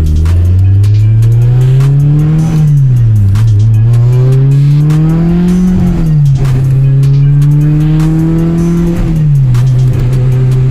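Naturally aspirated Honda K24 four-cylinder engine accelerating hard: the revs climb steadily and drop sharply at three upshifts, about two and a half, six and nine seconds in, then hold steady.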